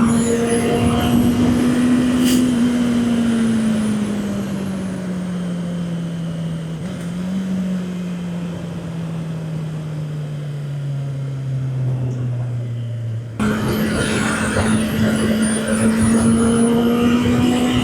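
Honda CB650R's inline-four engine under way, its note steady at first and then slowly dropping in pitch for about ten seconds as the bike coasts down in revs. It jumps suddenly back to a higher steady note near the end, with wind and road rush throughout.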